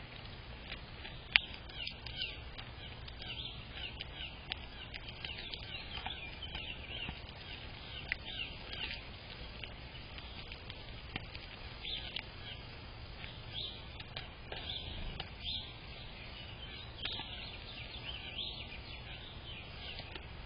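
Birds chirping in a steady stream of short, high calls, with one sharp click about a second in.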